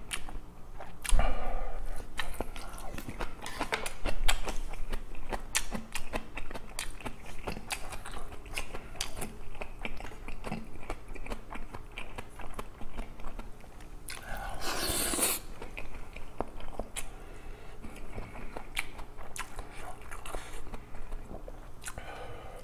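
Close-miked chewing and biting of food: continual wet mouth clicks and smacks. A low knock comes about a second in, and a louder second-long rush of noise about fourteen seconds in.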